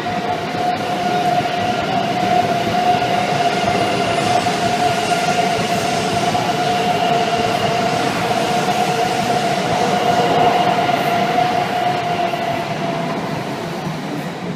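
Shinkansen train moving along the platform: a steady whine over a broad rumble, building over the first couple of seconds and fading away near the end.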